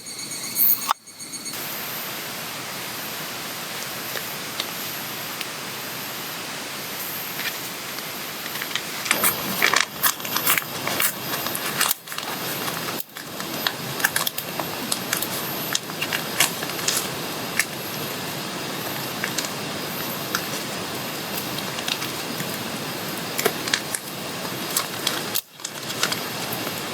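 A steady rushing hiss of flowing water runs underneath, with bursts of small clinks, taps and knocks of camp gear being handled, busiest in the middle of the stretch. The sound drops out briefly several times, as at cuts.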